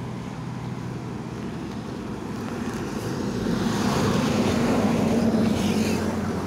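A motor vehicle's engine with a steady low hum, growing louder from about three seconds in as it comes close.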